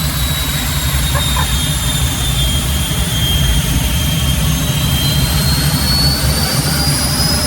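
Jet engine mounted on a mini truck running steadily: a loud rumble under a high turbine whine that sags slightly, then climbs in pitch over the second half as the engine spools up.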